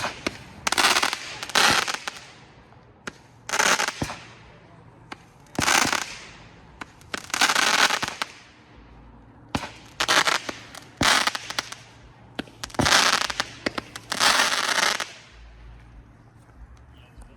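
Candy Apple consumer firework cake firing a string of shots, each breaking into loud crackle: about nine bursts of dense crackling, a second or two apart, with single sharp pops between them.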